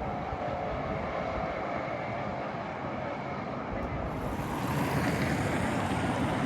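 Heritage tram running on its rails: a steady running noise that grows louder and brighter about four to five seconds in.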